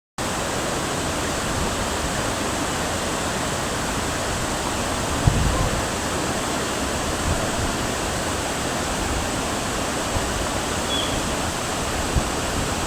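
Waterfall with a steady, loud rush of falling water. A brief low thump comes about five seconds in.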